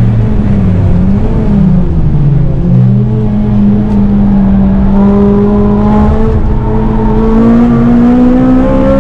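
Honda Civic Type R (FN2) four-cylinder engine running hard on track, heard from inside the car. Its pitch dips and recovers a couple of times in the first three seconds, then climbs slowly and steadily as the car accelerates.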